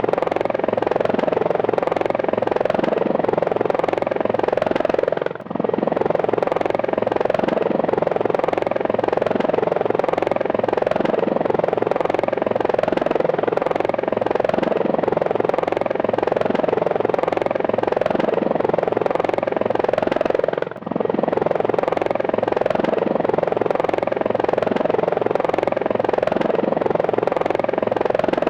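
Helicopter running steadily in flight, rotor and engine noise continuous, with two very brief drops in level, about five seconds in and about twenty-one seconds in.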